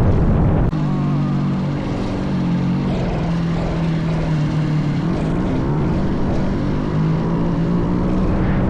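A minibike's small engine running at a steady speed, with a brief dip under a second in.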